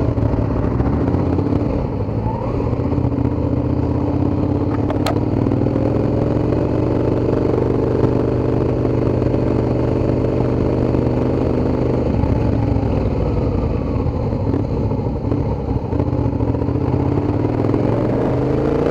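Suzuki SV650 V-twin engine with an Ixil aftermarket exhaust running under way, heard from on the bike. The engine note rises about five seconds in, holds steady, then eases off about twelve seconds in.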